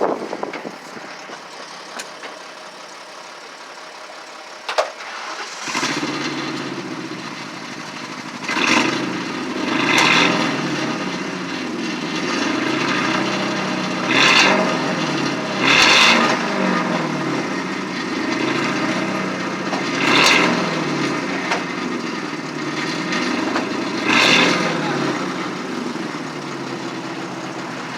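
1997 Ford Thunderbird's 4.6-litre V8 exhaust, through stock catalytic converters and two Flowmaster 40 Series mufflers, catching about six seconds in and settling to an idle. It is then blipped about six times with short revs, each rising and falling back to idle.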